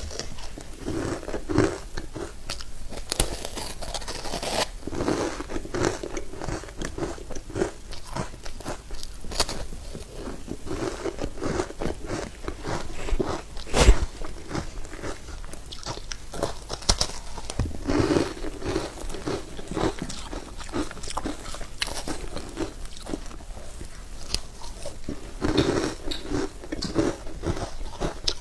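Ice dusted with matcha powder being bitten and chewed close to the microphone: a continuous run of crunches and crackles, with one sharp, louder crack about halfway through.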